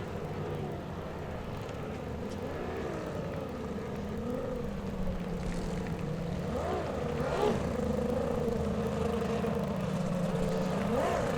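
Racing hydroplane engines running at speed, with short rises and falls in pitch about halfway through and again near the end.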